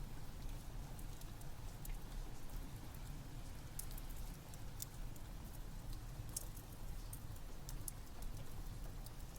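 Steady rain over a low rumble, with scattered small pops and crackles of a wood fire, a few a second.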